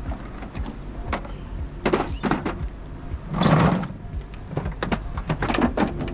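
Handling noise from a plastic pool cleaning robot: a string of light clicks and knocks, with one louder, longer shuffling sound about three and a half seconds in.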